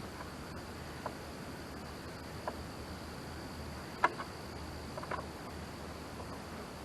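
Steady high insect chirring, with a few short metallic clicks of a wrench working the positive battery terminal; the loudest click comes about four seconds in.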